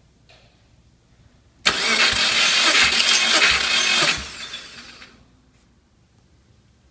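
Subaru EJ205 engine turned over by its starter for a compression test: a loud whirring crank that starts abruptly, runs for about two and a half seconds, then stops and winds down.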